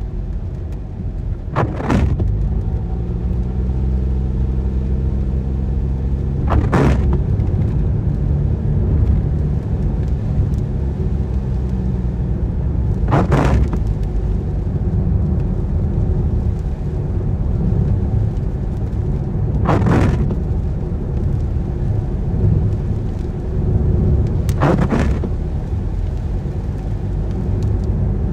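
Car cabin in the rain: steady tyre and road rumble with the engine note climbing as the car gathers speed a few seconds in. A short swish comes about every five to six seconds, the sweep of windscreen wipers on an intermittent setting.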